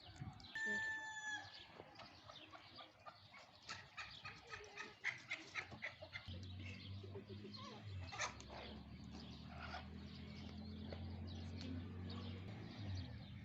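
Domestic fowl calling: a short held call near the start, then a quick run of repeated clucking calls. A low steady hum comes in about six seconds in and carries on underneath.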